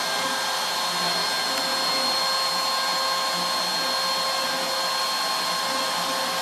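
CNC router spindle running at steady speed with a constant high whine while a small ball-nose bit carves a 3D relief in wood.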